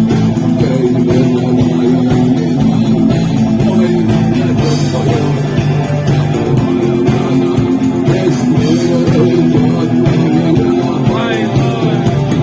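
Rock band playing: guitars and bass guitar over a steady beat with fine, even ticks of a cymbal.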